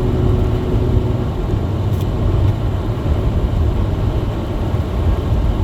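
Small front-wheel-drive car climbing a snowy hill, heard from inside the cabin: a steady low rumble of engine and tyre noise. A faint steady hum fades out about a second in.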